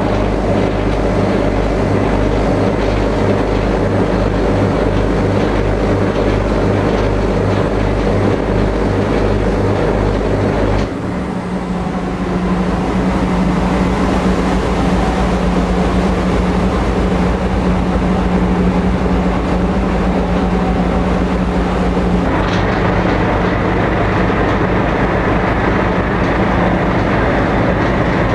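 Engines of a high-speed passenger ferry droning steadily under way, heard on board. The tone changes abruptly twice: about eleven seconds in, when a single steady hum takes over, and again about twenty-two seconds in.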